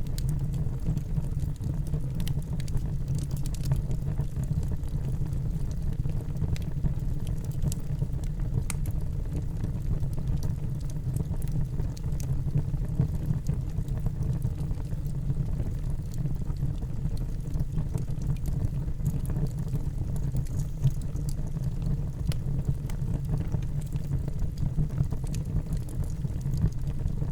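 Wood fire burning in a fireplace: a steady low rumble of the flames with frequent small, scattered crackles.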